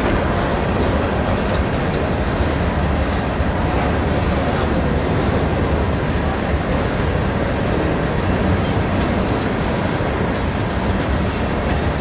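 Empty covered hopper cars of a freight train rolling past close by, steel wheels running on the rails with a steady noise.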